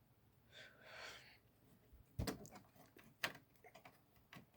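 Faint handling noises as an IDE ribbon cable is pushed back onto its connector inside an original Xbox: a soft rustle about a second in, then a few light plastic clicks and taps, the sharpest two about two and three seconds in.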